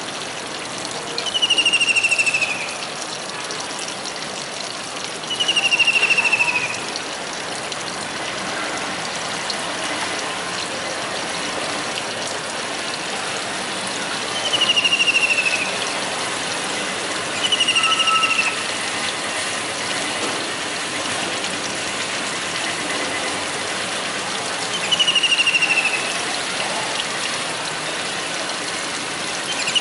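A kingfisher calling: five loud, descending rattling trills, each about a second long and spaced several seconds apart, over a steady background hiss.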